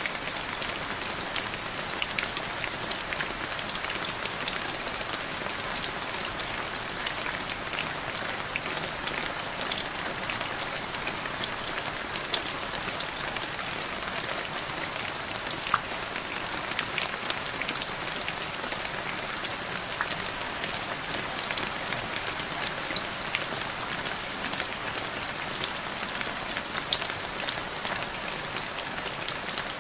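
Steady rain falling: an even hiss of rain with many small, sharp drop ticks scattered through it.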